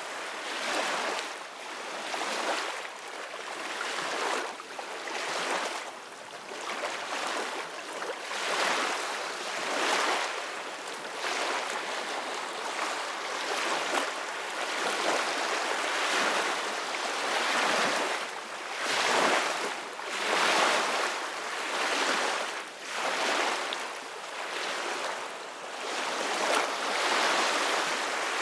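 Ocean waves washing on the shore, a steady hiss of surf that swells and fades every second or two.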